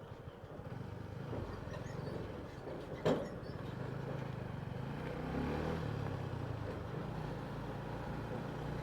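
Motorcycle running on the road, heard as a low steady rumble through a mic inside the rider's helmet, with one sharp click about three seconds in.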